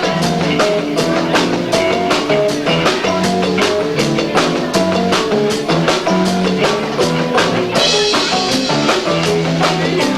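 Live rock band playing loud and fast, with two drum kits hitting several strokes a second under bass and guitar. It is a low-fidelity recording from a camcorder's built-in microphone, and the sound turns brighter and hissier about eight seconds in.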